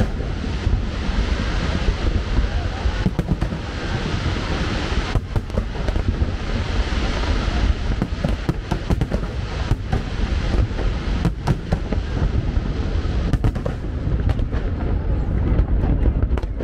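Aerial fireworks shells exploding in rapid succession: many sharp reports over a continuous low rumble and a noisy hiss and crackle.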